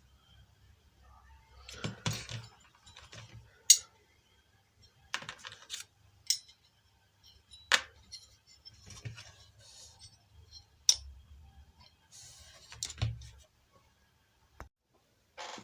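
Scattered sharp clicks, small knocks and short rustles of small parts and hand tools being handled on a workbench while transistors are fitted to a circuit board.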